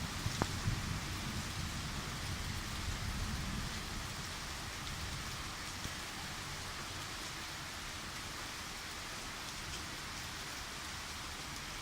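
Steady rain falling, with a low rumble of thunder in the first few seconds that fades out.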